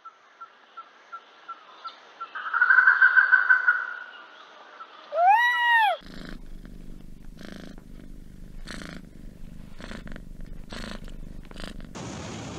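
Indian peafowl calling: a run of quick pulsed notes, then one loud scream that rises and falls in pitch. After a cut, a domestic tabby kitten purring with a low steady rumble.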